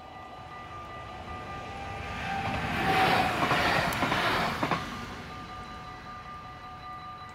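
A short passenger train passes over a level crossing. Its noise swells to a peak about three seconds in and fades after about five seconds, with a couple of sharp wheel clacks near the end of the pass. The crossing's warning bells ring steadily throughout.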